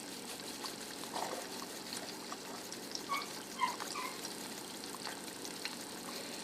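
Eggs frying in a skillet over lowered heat: a steady sizzle with scattered small crackles.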